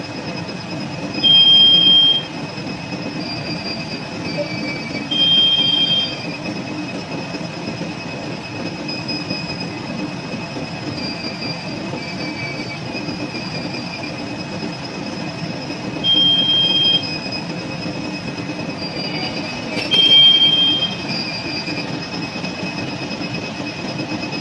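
A steady low rumble with thin, high squealing tones held over it, broken by four short, loud, high-pitched beeps, each under a second long: two near the start and two about two-thirds of the way through.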